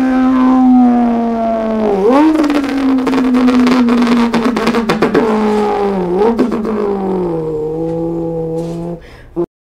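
Vintage roadster's engine running at high revs: one strong, steady note that slowly sinks in pitch, dipping and springing back up about two seconds in and twice more later, then cutting off near the end.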